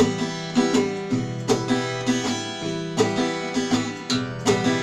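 Acoustic guitar playing an instrumental passage of picked notes over a low bass line, in an even rhythm.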